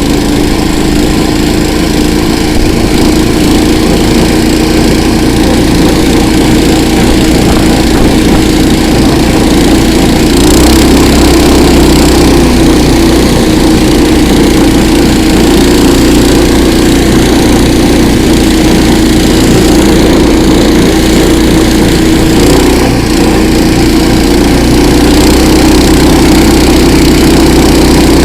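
Small engine of a KOiRA motor towing unit running steadily under way, at an even throttle, growing a little louder about ten seconds in.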